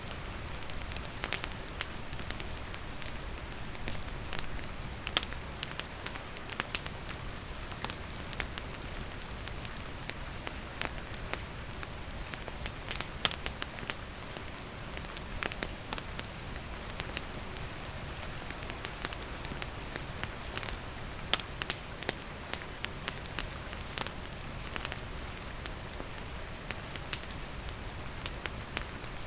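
Steady rain falling, with a wood fire crackling in irregular sharp pops throughout.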